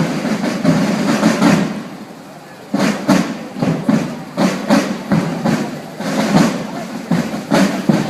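Indistinct voices of people talking, with a few short knocks among them.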